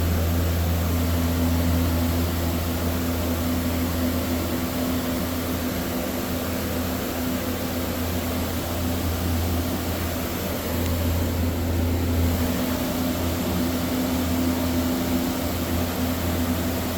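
Motor in a gas-fired condensing unit heater running steadily just after the power is switched on: a strong low hum with a steadier higher tone over an even noise of moving air.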